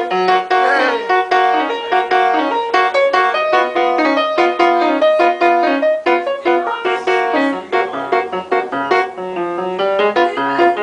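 Piano being played live, a lively passage of many quick notes and chords.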